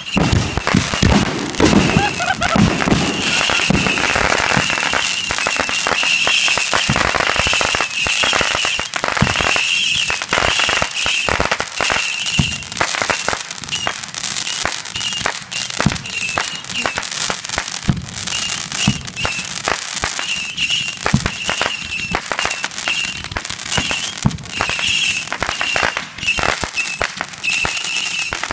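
Ground-launched consumer fireworks going off in a continuous barrage: dense crackling and popping shots, with a high whistling note that comes and goes throughout.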